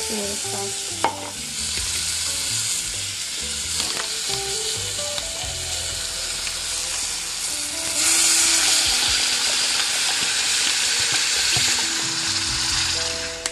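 Rice and seasonings sizzling as they fry in hot oil in a pan while being stirred, the sizzle growing louder about eight seconds in.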